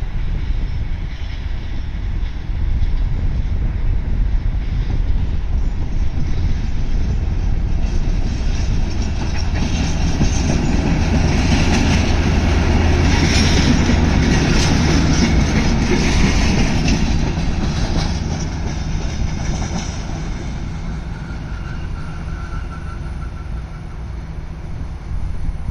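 Heritage train hauled by locomotive 439-015 passing, with a steady low rumble and wheels clacking over the rail joints. It is loudest about halfway through, then fades, with a brief wheel squeal near the end.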